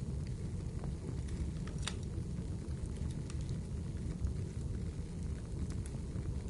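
Wood fire burning in a fireplace: a steady low rumble of flames with scattered sharp crackles and pops from the burning logs, one louder pop about two seconds in.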